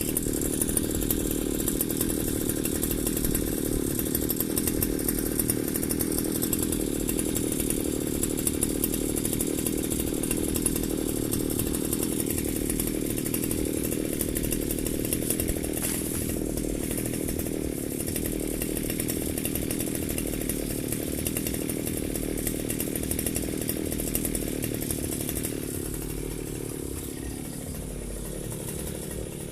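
Firman FGB 528 brush cutter's small petrol engine running steadily at high speed while cutting grass. Near the end the pitch falls as the engine slows.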